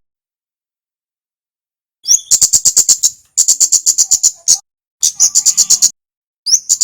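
Kemade (minivet) calling: after a silent start, four loud bursts of rapid, sharp high chips, about eight a second. Each burst lasts about a second and opens with a short rising note.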